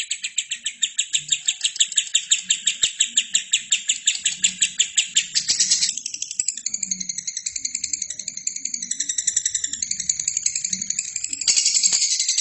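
Albino lovebird chattering: a long, rapid run of sharp chirps, several a second, for about six seconds, then a softer, more varied twitter, before the fast chirping starts again near the end.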